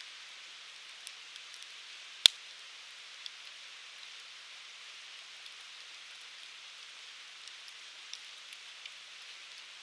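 Firewood burning: a steady hiss with scattered light crackles, and one sharp, loud pop a little over two seconds in.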